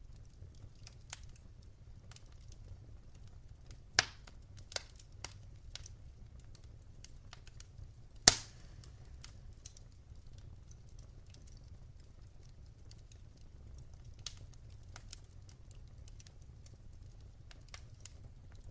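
Wood fire crackling in a fireplace: scattered small snaps over a low steady rumble, with two loud pops, one about four seconds in and a louder one about eight seconds in.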